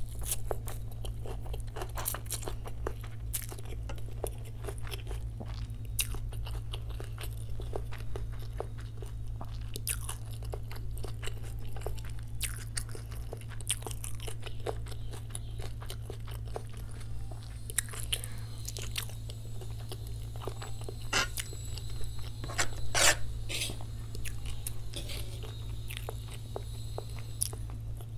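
Close-miked chewing of chow mein noodles and boiled egg, a dense run of sharp wet mouth clicks and smacks, the loudest a little past two-thirds through. A steady low hum runs underneath.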